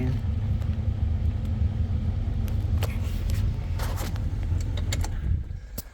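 2006 GMC pickup's engine idling with a steady low rumble, with a few light clicks over it. The rumble cuts out about a second before the end.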